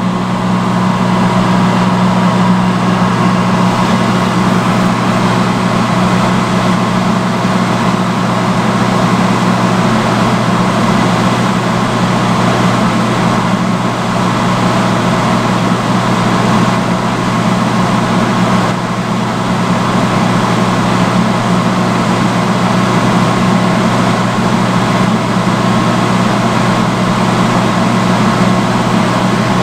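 Vintage salon hood hair dryer running steadily on its highest setting: a constant motor hum under an even rush of blown air.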